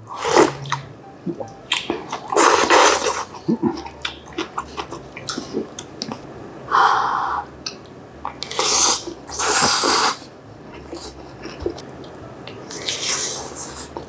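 Close-miked eating of spicy bean sprout, fish cake and glass-noodle japchae: wet mouth sounds and chewing, broken by about six short, noisy bursts of sharp breath and slurping.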